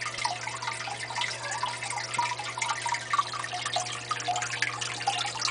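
Water trickling and splashing steadily in a red-eared slider's tank, with a low steady hum beneath.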